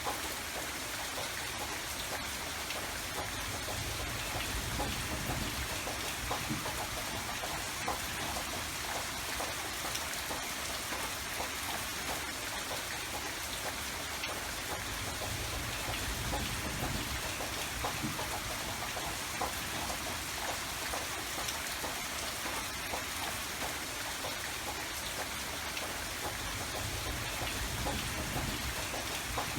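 Steady rain falling, with many individual drops pattering on a surface and a low rumble that swells and fades every several seconds.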